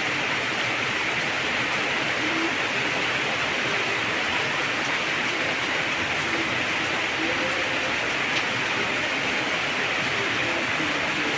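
Heavy rain falling steadily, an even unbroken hiss. Faint short low tones come and go under it.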